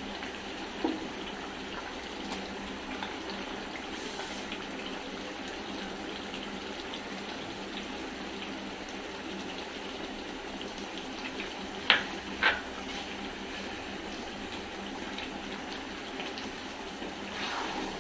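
Mutton frying in oil in a pan on a gas stove, a steady sizzle. About twelve seconds in, two sharp knocks of the wooden spatula.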